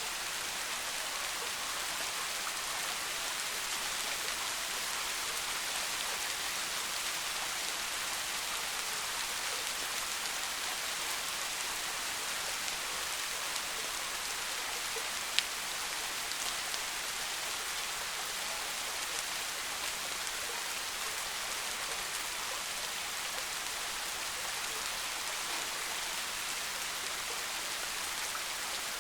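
Steady rain falling in a forest, a soft even hiss of many drops pattering on leaves and ground, with one sharper drop striking about halfway through.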